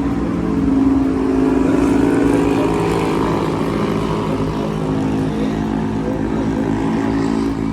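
A steady motor drone with a pitched hum, swelling about a second in and holding.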